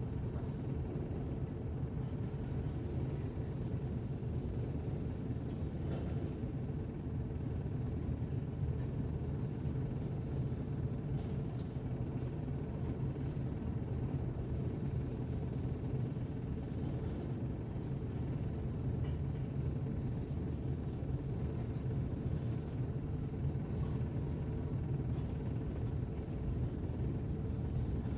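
Steady low rumble of a freight train of tank cars rolling past, heard from inside a car's cabin.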